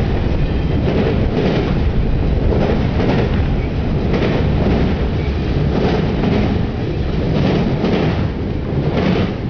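Autorack freight cars rolling past: a steady rumble of steel wheels on rail, broken by repeated clacks, often in pairs, as the wheels cross rail joints.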